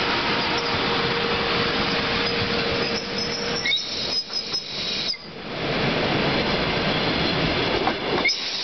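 Electric commuter train (elektrichka) arriving at a station. The cars roll past with a steady rumbling noise, broken by brief high wheel squeals about four seconds in and again near the end.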